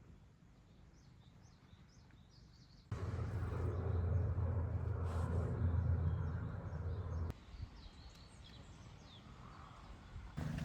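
Small birds chirping faintly. From about three seconds in to about seven seconds a louder steady low rumble with a hum cuts in and cuts off abruptly, then the faint chirping returns.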